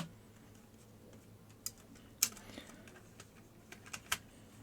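Small sharp clicks and taps of a Nintendo DSi's plastic parts being handled and fitted during reassembly, about four of them spaced irregularly, over a faint steady hum.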